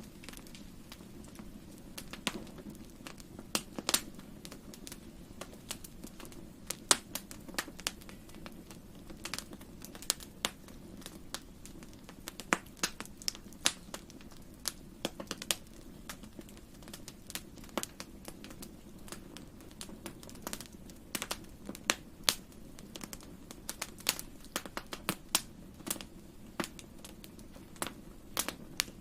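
Wood fire crackling in a fireplace: irregular sharp pops and snaps, sometimes several close together, over a steady low rumble from the burning logs.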